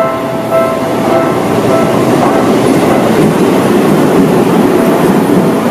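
Seibu 20000 series electric commuter train running along the platform, its wheels rumbling and clattering over the rails, growing louder through the first couple of seconds. A repeating electronic chime, about one strike every 0.6 s, fades out in the first two seconds.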